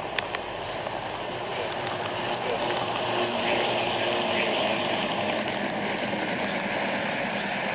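A vehicle driving steadily: even rushing road and engine noise with a faint steady hum.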